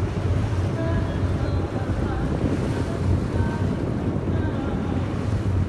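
Yakatabune houseboat under way: a steady low engine rumble, with wind on the microphone and water noise.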